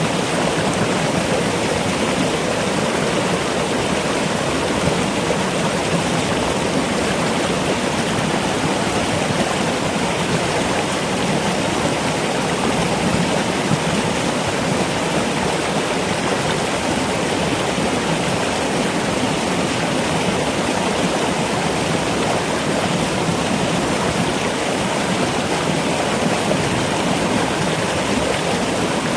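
Stream water rushing steadily, an even wash of noise with no separate splashes or other events standing out.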